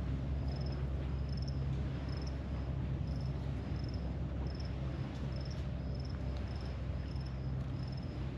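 Cricket chirping steadily, about two short high chirps a second, over a steady low rumble.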